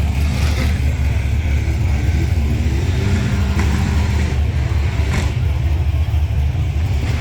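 Steady low rumble of car engines running, with a faint engine note rising out of it for a second or two in the middle.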